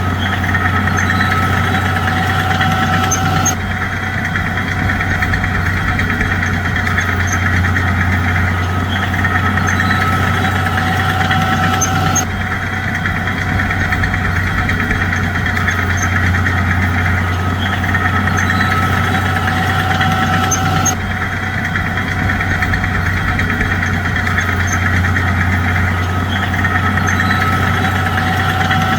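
Bulldozer's heavy diesel engine running steadily with a deep hum. The sound changes abruptly about every nine seconds, as at edits.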